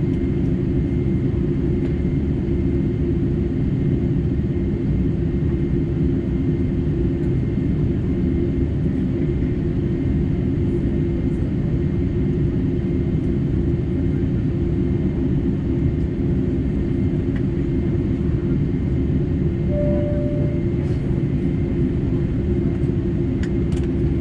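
Steady cabin noise inside a Boeing 747-8 on the ground after landing: an even rumble with a constant hum from the engines and air conditioning. A short single tone sounds about 20 seconds in, and there are a few faint clicks near the end.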